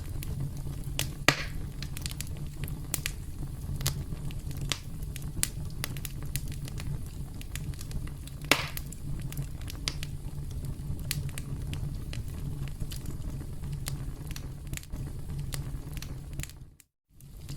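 Campfire crackling: a steady low rumble of burning with many scattered small pops, and two louder pops about a second in and about eight and a half seconds in. The sound cuts out completely for about half a second near the end.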